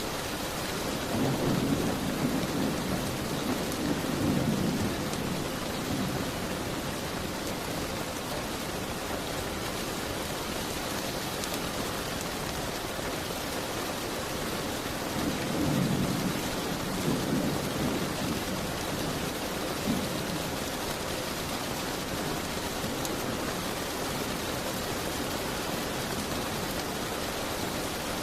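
Steady heavy rain with low rolls of thunder, once in the first few seconds and again about halfway through.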